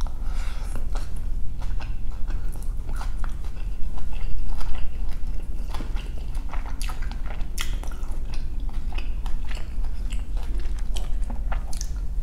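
Close-miked chewing of a mouthful of chicken pad thai rice noodles: irregular wet mouth clicks and smacks, over a low steady hum.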